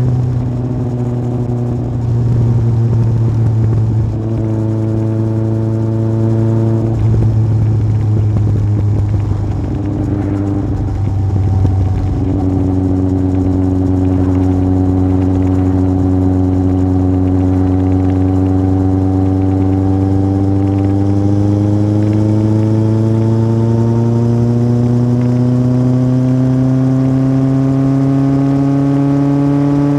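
Yamaha Fazer 1000 inline-four engine through an aftermarket MIVV exhaust, heard riding along. The engine note changes several times in the first twelve seconds, then holds steady and rises slowly in pitch over the last third as the bike picks up speed.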